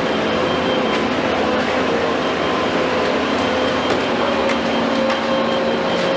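Komatsu PC210 hydraulic excavator running steadily: diesel engine and hydraulics with a whine that steps slightly higher in pitch about four seconds in.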